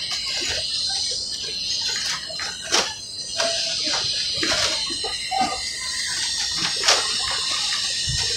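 Ride noise of a narrow-gauge passenger train rolling along: a steady hiss with a high steady tone, broken by a few sharp clacks, with faint voices in the background.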